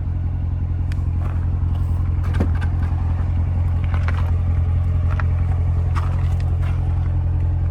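Corvette's engine idling steadily, a low even hum, with a few faint clicks and light scrapes over it.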